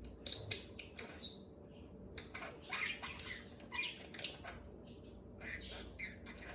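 Budgerigar chattering to itself in quick, irregular chirps and squawks, pausing briefly twice.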